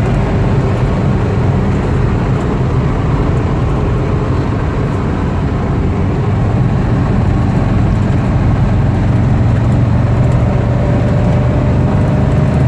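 1956 Ford Thunderbird's 312 V8 running steadily at about 2,800 rpm while cruising around 65–70 mph with the overdrive pulled out, heard from inside the car as a steady low engine drone under road and wind noise.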